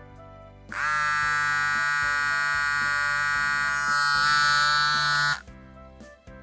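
A loud, steady buzzing tone that starts about a second in and cuts off sharply near the end, lasting roughly four and a half seconds, over light background music.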